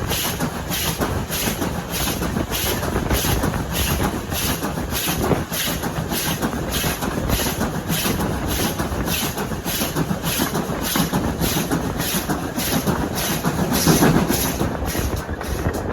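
Train running on the line, with an even rhythmic beat of about two strokes a second.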